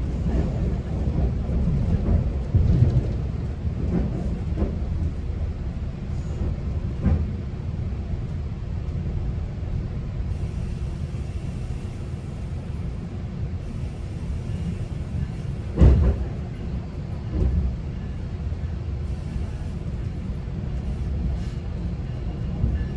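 Low, steady rumble of a GO Transit commuter train heard from inside a passenger coach, with a few knocks and one louder thump about two-thirds of the way through.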